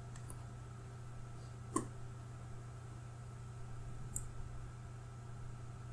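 Two computer mouse clicks about two and a half seconds apart, over a low steady hum.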